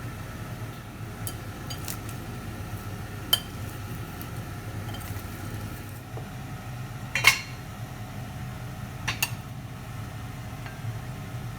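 Dishes and utensils clinking a handful of times, the loudest clink a little past the middle, over a steady low hum.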